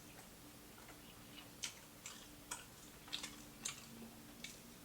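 Scattered sharp crunches and clicks of chewing crispy fried food, about seven in a few seconds, over a faint steady hum.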